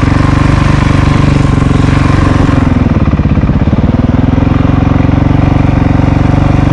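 Dirt bike engine idling close to the microphone, its note sagging and wavering for a second or so about two and a half seconds in before settling back to a steady idle.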